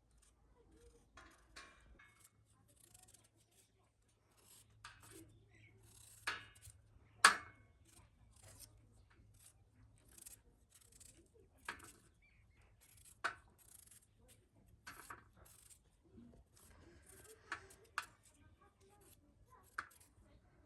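Irregular sharp cutting clicks and snips, about a dozen spread unevenly, the loudest about seven seconds in.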